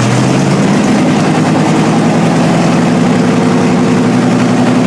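Car engine idling loudly and steadily just after being started, its pitch settling slightly upward in the first second.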